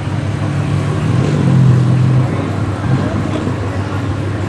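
Car engine running low and steady in street traffic, swelling a little about a second in and easing back after about two seconds.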